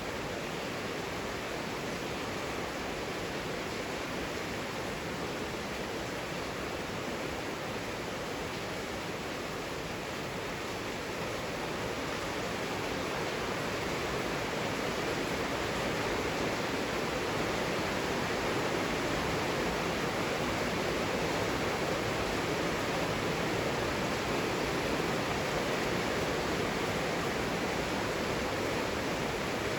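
Heavy rain falling steadily, a dense even hiss that grows a little louder about halfway through.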